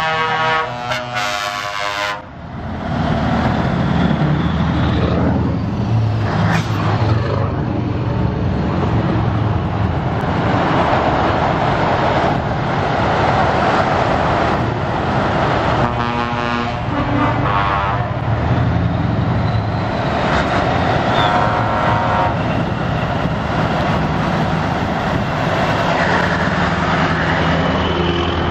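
Scania trucks driving past with their diesel engines running, and air horns sounded in several blasts: one right at the start, another about 16 seconds in and a shorter one about 21 seconds in.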